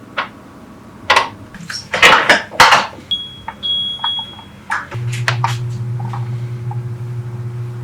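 Kitchen clatter of dishes and utensils knocking together, then two electronic beeps. About five seconds in, an appliance starts with a steady low electric hum.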